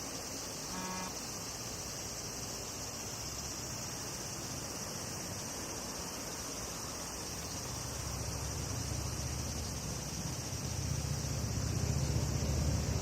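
Steady high-pitched drone of summer insects. A low rumble, like a passing vehicle, builds in the second half.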